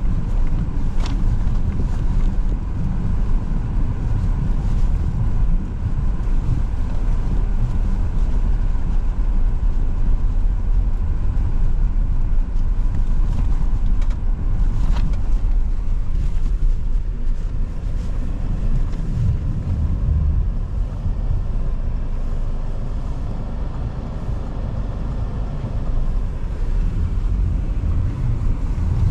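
Car driving on snow-covered streets: a steady low rumble of tyre and engine noise, with a few sharp ticks.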